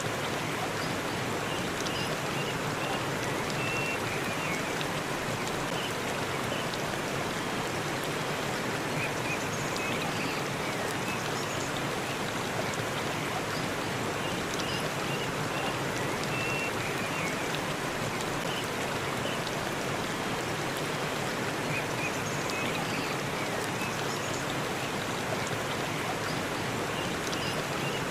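Waterfall rushing steadily, with a few faint high chirps now and then.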